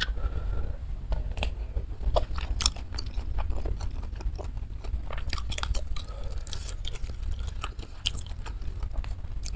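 Close-up chewing and mouth sounds of a person eating instant noodle soup, with many short irregular clicks, some from wooden cutlery, over a steady low hum.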